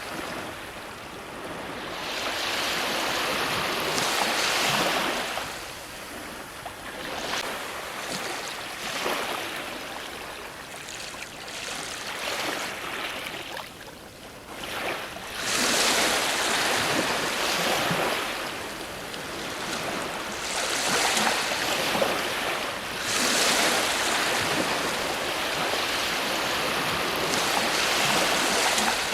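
Ocean waves breaking on a shore, the surf swelling and ebbing in several surges with quieter lulls between them.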